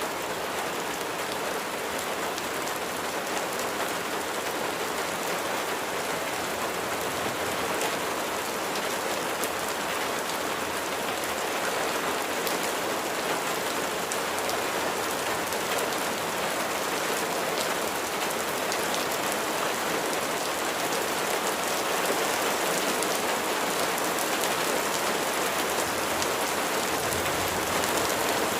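Steady rain falling: an even hiss of many drops with fine individual taps, growing slightly louder toward the end.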